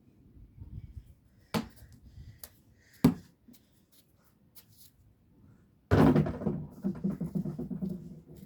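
A basketball bouncing twice on hard ground, then a loud bang about six seconds in as it strikes the hoop's backboard and rim, which rattle and ring for about two seconds.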